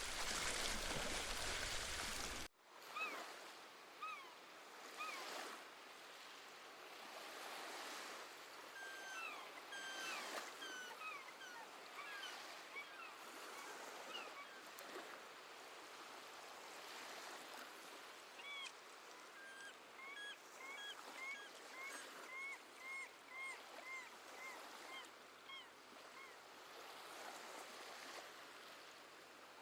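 Loud rushing water that cuts off abruptly about two seconds in, giving way to soft surf with seabirds calling. A few scattered calls come first, then a quick run of repeated calls near the end.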